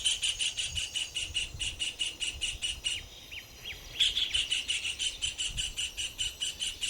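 Savanna nature ambience: a high, rhythmic chirping call repeated about seven times a second, in two long runs with a pause of about a second between them. A few short, falling chirps sound during the pause.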